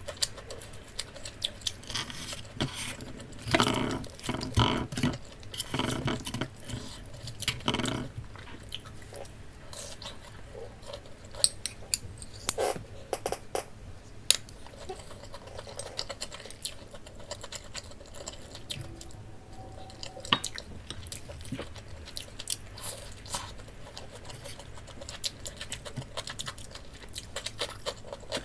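Close-miked eating of a crisp, breaded Korean pork cutlet (donkatsu). The crunchy bites are loudest and densest in the first third, then give way to softer chewing with scattered crunches.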